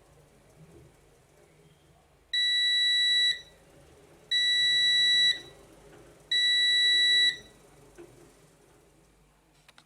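Siemens Siwamat iQ 716 washing machine's electronic buzzer sounding three steady one-second beeps about two seconds apart, typical of the end-of-programme signal.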